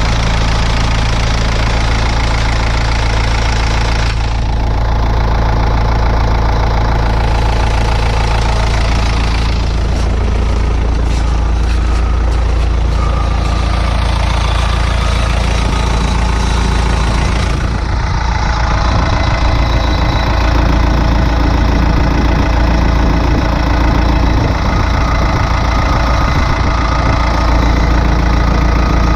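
Isuzu 4BD1T four-cylinder turbo diesel idling steadily with a diesel knock, running on after a cold start and not yet warmed up.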